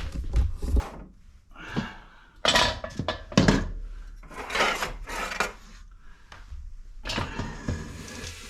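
Irregular clanks, knocks and scrapes of wood and metal: firewood and a wood stove being handled to start a fire.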